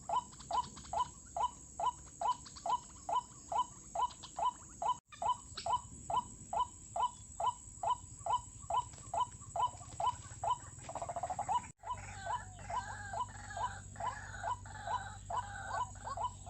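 White-breasted waterhen calling, a run of short, repeated croaking 'kru-ak' notes at about three a second. The run quickens briefly about two-thirds of the way in, after which a second, higher string of notes joins.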